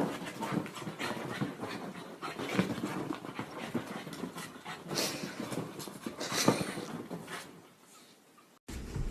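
A dog panting in quick, irregular breaths, with a couple of louder sharp sounds about five and six and a half seconds in. It fades out near the end, and a different sound with a low rumble cuts in.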